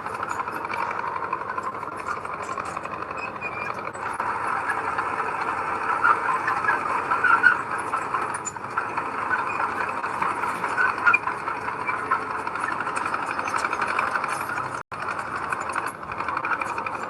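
Heavy diesel earthmoving machinery running steadily under work, with a brief sudden drop-out near the end.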